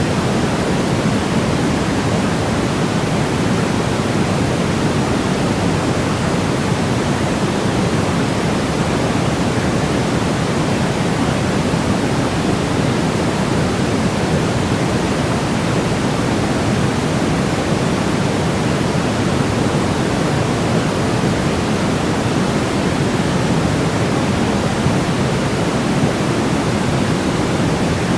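Continuous generated white noise for baby sleep: a steady, unchanging rushing hiss, weighted toward the low end so that it sounds deeper and softer than pure white noise, closer to pink noise.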